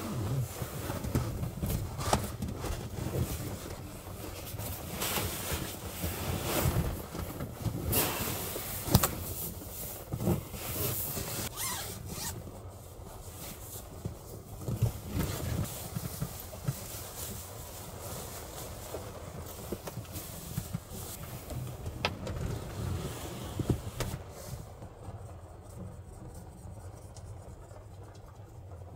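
Close-up handling noises: rustling and scraping with frequent sharp clicks and knocks, which die down about 24 seconds in, leaving a quieter steady hiss.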